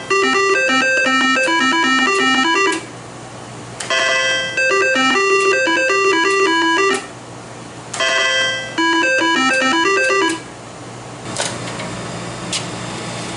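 IGT S2000 slot machine playing its electronic beeping melody three times over, each run of quick stepped notes lasting about three seconds with a short pause between. A few sharp clicks follow near the end.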